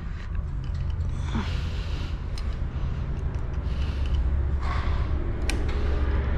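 Light clicks and scrapes of a hand tool working small bolts on a motorcycle engine, with two breathy rustles, over a steady low hum that grows slowly louder.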